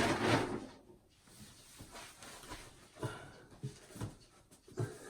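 A few short, light knocks and clunks of hardware being handled and set down, with four in the second half.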